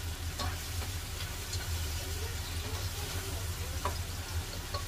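Garlic, onion and ginger sizzling in hot oil in a pot while being stirred, with a spoon now and then clicking and scraping against the pot, over a steady low hum.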